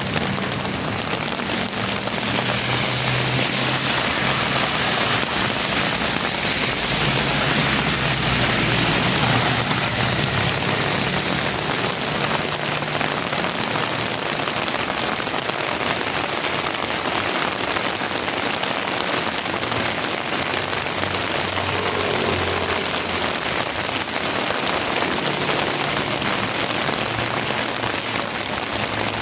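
Heavy rain falling steadily and pattering on surfaces, with a low rumble coming and going beneath it.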